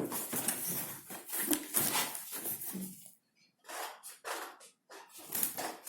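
Packaging rustling and being handled in irregular bursts, with a short silent gap about three seconds in.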